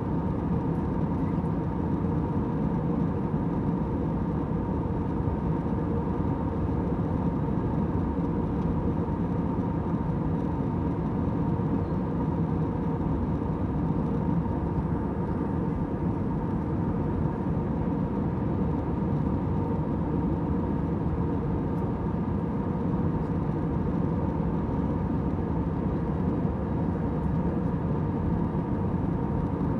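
Airliner cabin noise in flight: a steady, even hum and rush of engines and airflow with a few faint steady tones, unchanging throughout.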